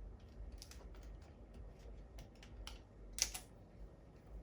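Irregular light clicks and taps from handling the laptop under repair, like keys being pressed, with one sharper click about three seconds in.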